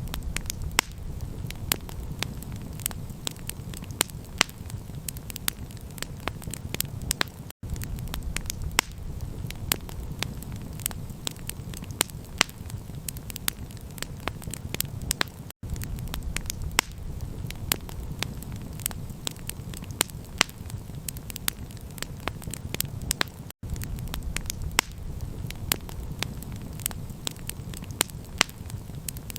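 Campfire crackling: frequent sharp pops and snaps over a steady low rumble, with brief silent gaps about every eight seconds.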